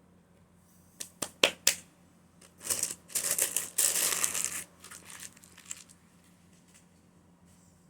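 Paper or plastic food wrapping being handled and crumpled: a few sharp clicks, then about two seconds of loud crinkling that tapers off into a few smaller rustles.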